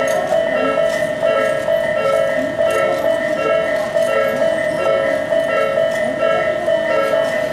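Japanese railway level-crossing warning bell ringing in a steady repeating electronic clang, roughly every half second, over the noise of a passing train.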